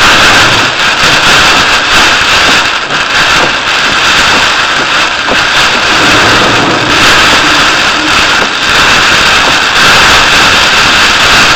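Heavy rain on a vehicle travelling a highway: a loud, steady rush of rain and wet-road noise that barely changes.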